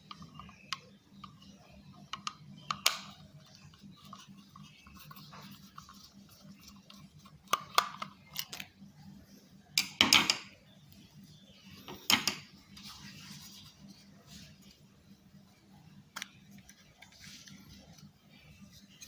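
Small plastic parts of a wireless mouse being handled: scattered light clicks and knocks, with louder clatters about 8, 10 and 12 seconds in.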